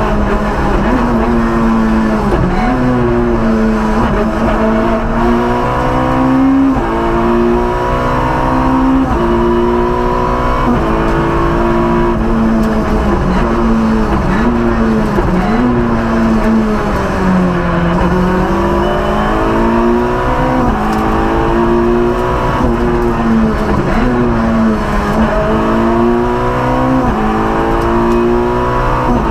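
Peugeot 106 Maxi rally car's four-cylinder engine, heard from inside the cabin, driven hard: the pitch climbs through each gear and drops sharply at every shift, over and over. Around the middle it falls to a low dip as the car slows, then climbs again.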